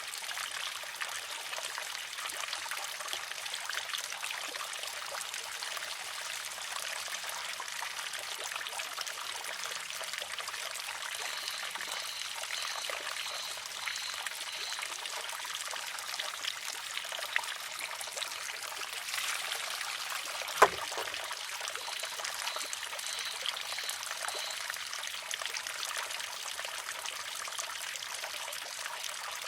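Water trickling and pouring steadily into a wooden shishi-odoshi and its basin. About two-thirds of the way through comes one sharp clack as the water-filled wooden arm tips and strikes the rock.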